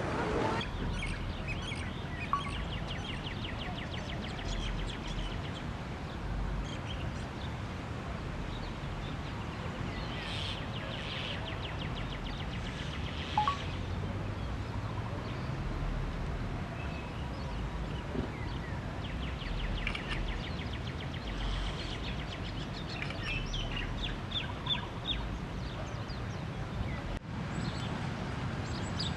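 Birds chirping in quick rattling trills, several times over, against a steady low background rumble, with one sharp click partway through.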